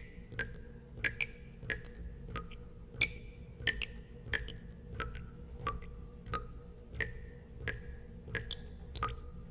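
Water drops falling into water one after another, about three every two seconds. Each is a sharp plink with a short ringing tone whose pitch changes from drop to drop, over a low steady hum.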